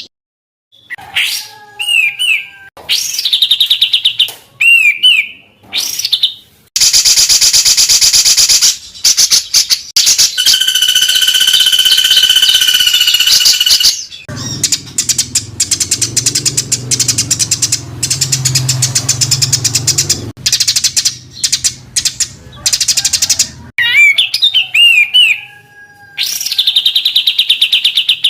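Recorded songbird calls edited into a bird-tutor track: dense, rapid trills and harsh chattering phrases in quick succession, with a long high trill in the middle. A low hum runs under the calls for several seconds after the middle, and the opening phrases come round again near the end as the track loops.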